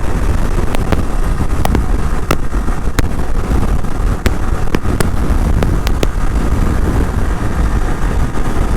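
Motorcycle running at road speed, with heavy wind rumble on the microphone and scattered sharp clicks.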